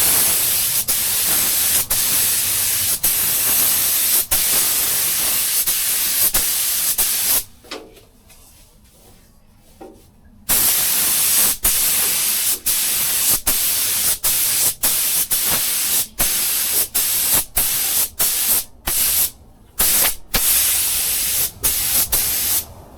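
Paint sprayer hissing as paint is sprayed onto a car's engine bay in long passes. It stops for about three seconds a third of the way in, then resumes in shorter passes with many quick breaks between them.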